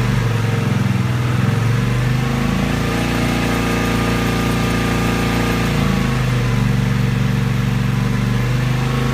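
Kawasaki VN750 Vulcan's V-twin engine running off choke, revved up from idle to a steady 3000 RPM for about three seconds, then settling back down to idle.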